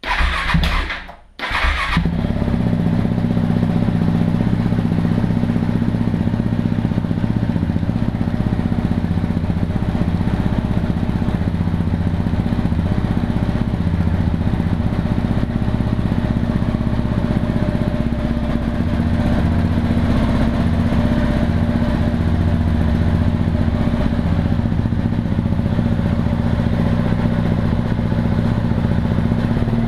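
KTM 690 single-cylinder motorcycle engine running through its exhaust. A short burst, a sudden break about a second in, then it runs steadily at an even speed.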